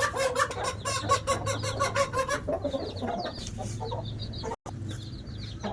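Aseel chickens clucking in quick runs, giving way past the middle to rapid high-pitched chirps. A steady low hum runs underneath.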